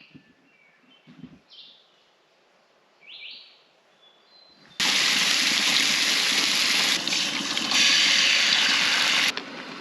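A few short bird chirps over quiet woods, then about five seconds in a loud, steady rushing noise like running water starts suddenly and cuts off abruptly near the end.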